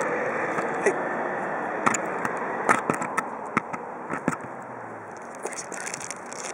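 A kea's beak clicking and tapping at irregular intervals, a sharp click every half second or so, over a steady rushing noise.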